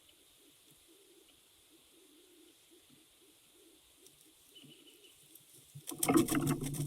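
Faint, repeated low cooing of a dove in the background, then about six seconds in a sudden loud close burst of rustling and knocks with a low hum.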